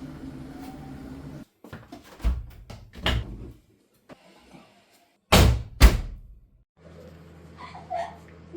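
A series of heavy thumps or bangs, the loudest a pair close together about five and a half seconds in.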